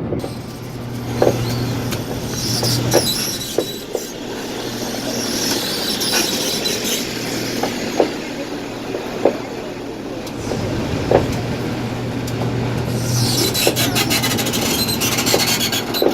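Motorized sugarcane press for fresh cane juice: a steady motor hum with squealing and rubbing from the rollers, a few sharp clicks, and a burst of rapid ticking near the end.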